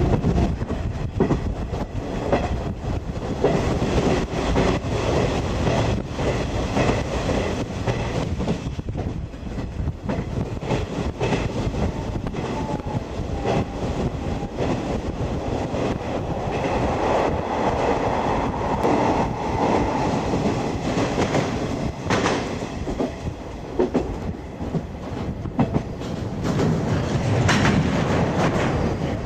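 A 50-series passenger coach running, heard from inside: a steady rumble of wheels on rail with the repeated clickety-clack of the rail joints.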